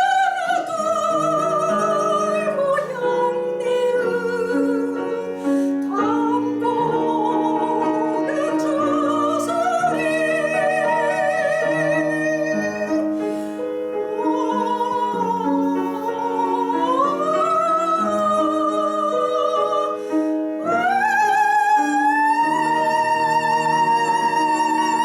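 Soprano singing a Korean art song in operatic style with piano accompaniment, her voice carrying a wide vibrato over sustained piano chords. About twenty seconds in she rises to a long held high note.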